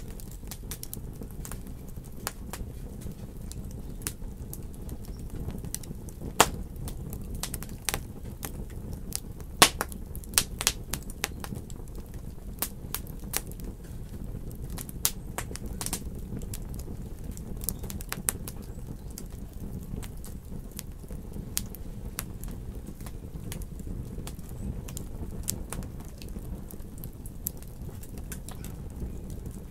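Wood fire in a fireplace crackling: irregular sharp pops and snaps over a steady low rumble, with a few louder pops about a third of the way in.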